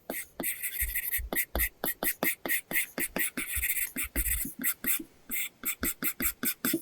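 Apple Pencil tip tapping and scratching in quick short strokes on an iPad Pro's paper-texture screen protector, a rapid run of dry clicks at about five a second.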